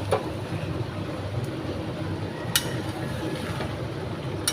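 Chicken liver and gizzard curry cooking in a pan over a steady low rumble, with three sharp knocks of a spatula against the pan: near the start, midway and at the end.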